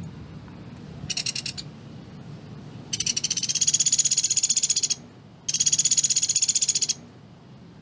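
Pelatuk beras woodpecker giving its rapid-fire rattling call: three high, fast-pulsed trills, first a short one, then a long one of about two seconds, then another of about a second and a half.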